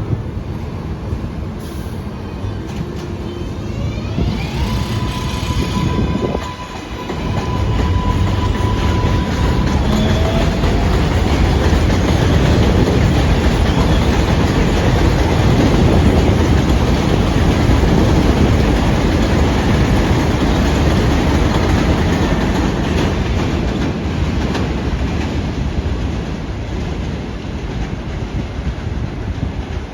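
R188 subway train running along the elevated steel structure, its wheels on the rails making a loud, rumbling clatter that builds to a peak midway and then slowly eases. A steady high whine sounds for a few seconds before the rumble takes over.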